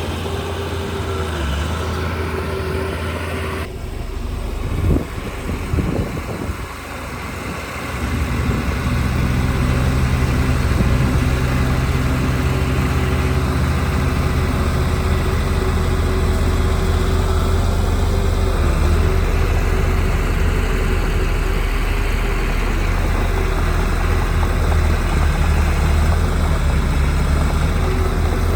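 Heavy diesel engine of earthmoving equipment (bulldozer or dump truck) running steadily. The sound changes abruptly about four seconds in, with a few uneven knocks, then settles into a steadier, louder engine note from about eight seconds on.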